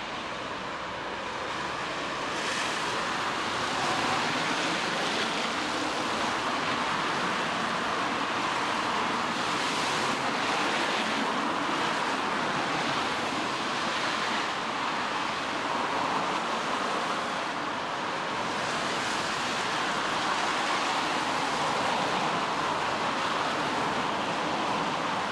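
Steady hiss of rain falling on a wet street. It grows a little louder about three seconds in, then swells and eases slightly now and then.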